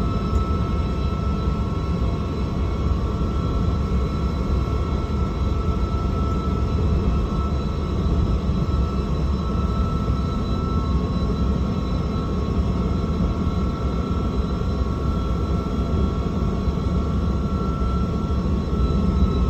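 Scania truck's hydraulic retarder braking a fully loaded truck down a long descent: a steady high whine over a deep, even drivetrain rumble.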